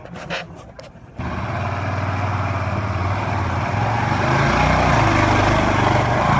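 Motorcycle engine running under way, with a steady rush of wind noise over it; it starts abruptly about a second in, and its pitch steps up and down a few times.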